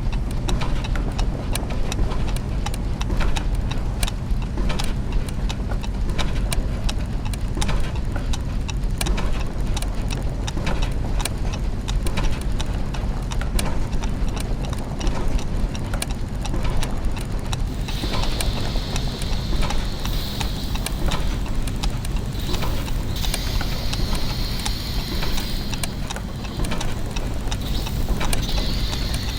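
Layered clockwork and gear mechanisms: many overlapping ticks and clicks over a steady low machine hum. About two-thirds of the way through, a high whirring tone joins in, starting and stopping in spurts.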